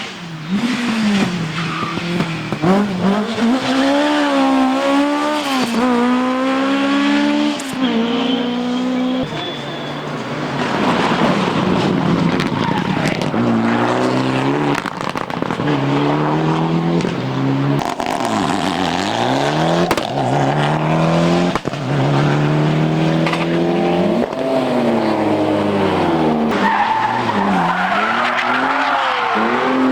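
Rally car engine accelerating hard, its pitch climbing and dropping back sharply at each gear change, again and again, with tyre noise from skidding.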